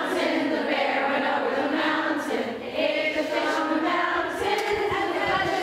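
A large group of adult voices singing together, a simple song sung by a crowd of workshop participants.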